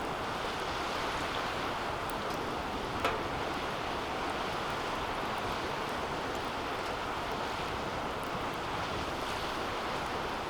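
Wood fire burning in a DOD Mecha Moe Fire 2 metal fire pit: a steady rushing of flame with faint crackles and one sharp pop about three seconds in.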